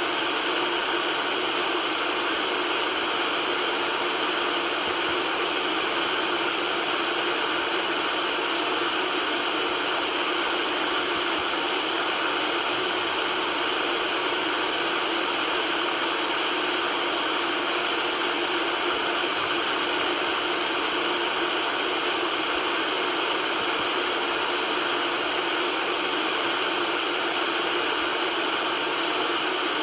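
Steady white noise: an even, unchanging hiss, mostly high-pitched with little bass.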